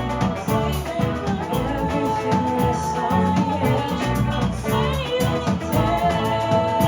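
Live band playing an instrumental passage of a song, with drum kit, a bass line and sustained melodic notes.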